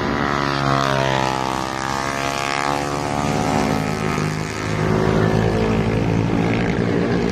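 Motorcycle engine running under way, its pitch easing down and coming back up in the first few seconds, then holding steady after a short dip in level about four and a half seconds in.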